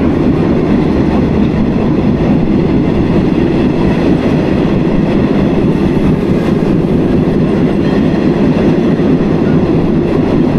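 Steady rumble of a metre-gauge passenger train running along the track, heard from inside the carriage.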